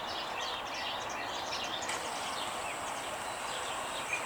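Small birds chirping over a steady outdoor background, many short high chirps with a few louder ones near the end. A thin, steady high-pitched tone comes in about two seconds in.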